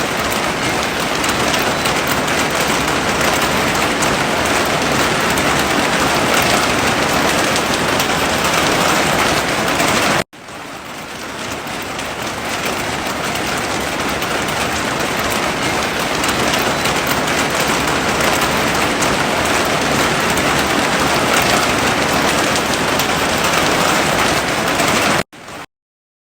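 Heavy rain falling steadily, a dense even hiss. It cuts out suddenly about ten seconds in and swells back, and drops out again briefly near the end.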